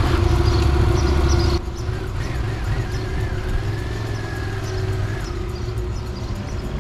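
Yamaha Tracer motorcycle engine running with a steady low hum; the sound drops in loudness about a second and a half in, and a thin wavering whistle rides above it for a few seconds.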